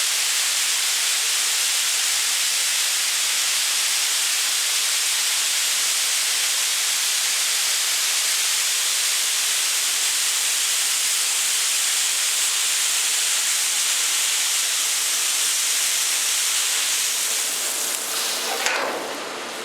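Peanuts pouring in a steady, loud rushing hiss as they are dumped at the peanut mill. The rush thins out and drops away near the end.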